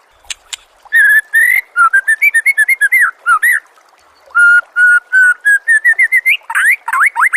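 A songbird singing fast, varied phrases of clear whistled notes and trills, with brief pauses between phrases. This is a masteran (song-tutor) recording made for training white-rumped shamas.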